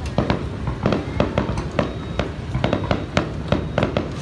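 Aerial fireworks shells launching and bursting overhead: a quick, uneven run of sharp bangs and cracks, several a second.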